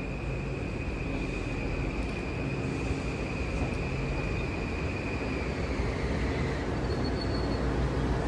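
Train running: a steady low rumble with a high, steady whine that fades away about six seconds in.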